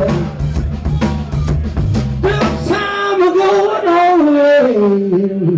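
Rock band playing live: drums and bass drive on, then drop out about halfway, leaving a held melodic line that steps down in pitch as the song winds down.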